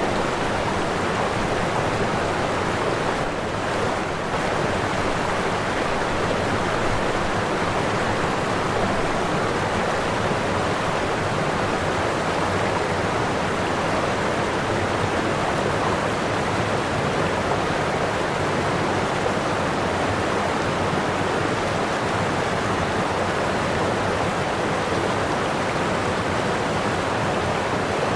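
Waterfall rushing: a steady, continuous roar of falling water.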